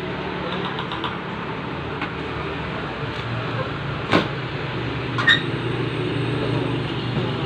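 Steady low hum with two sharp clicks, about four and five seconds in.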